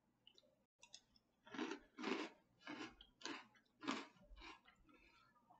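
A person chewing a mouthful of chocolate cereal puffs in milk: faint, regular chews, about six of them a little over half a second apart.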